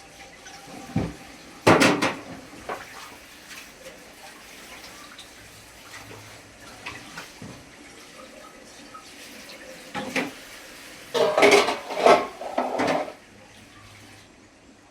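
Pots, dishes and utensils clattering against each other, with water running from a tap. There is a short clatter about two seconds in and a longer run of knocks between about ten and thirteen seconds.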